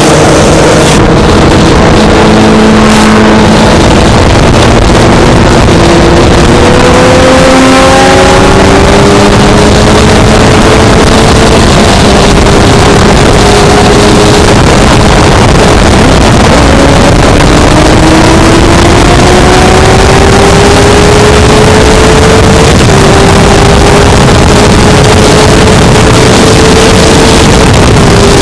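Honda CBR600F inline-four engine heard from on board while riding, its pitch climbing as the bike pulls through the revs and dropping suddenly at two gear changes. Heavy wind rush on the microphone runs under the engine throughout.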